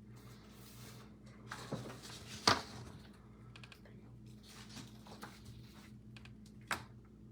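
Computer keyboard typing: scattered key clicks and taps, the sharpest about two and a half seconds in and another near the end, over a steady low electrical hum.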